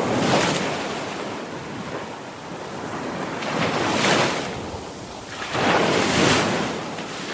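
Sea waves crashing and washing in, a steady rush of surf that swells three times: once right at the start, then twice more in the second half.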